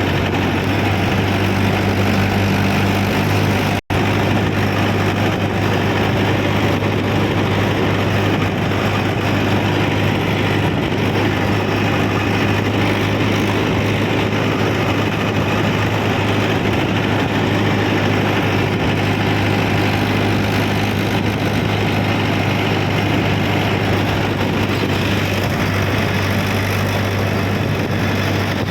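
Mahindra tractor's diesel engine running steadily with a deep, even drone. The sound cuts out for an instant about four seconds in.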